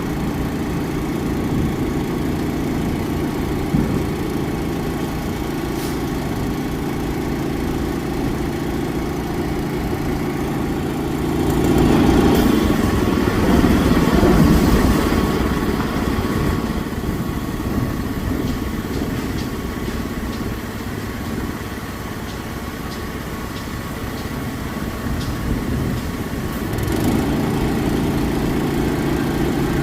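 Diesel engines of heavy earthmoving equipment running steadily at idle, with a louder surge of engine and rushing noise for a few seconds about halfway through.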